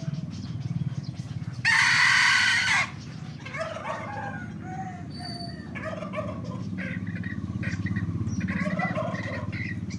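Young Indian hybrid junglefowl cockerels: one loud, short crow about two seconds in, then several birds clucking and calling over a steady low hum.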